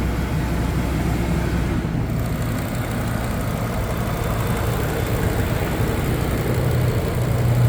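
Ford F550 service truck's engine idling steadily with a constant low hum.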